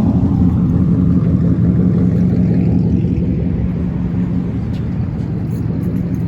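Vehicle engine running steadily close by, a loud low hum holding one constant pitch.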